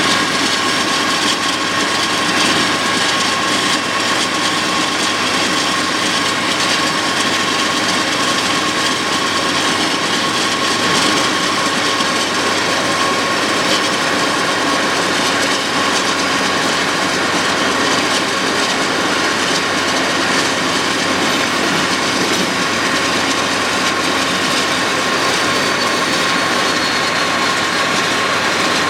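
BNSF autorack freight train rolling by: the steady, unbroken noise of the rail cars' wheels on the track, with a faint steady high tone through it.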